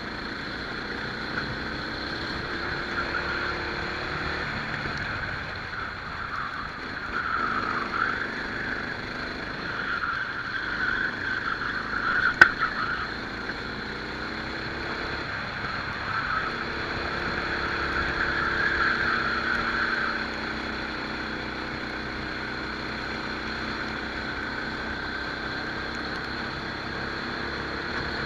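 Rental kart's small engine running hard, heard onboard, its pitch rising and falling as the kart accelerates and slows through the corners. There is a single sharp click about twelve seconds in.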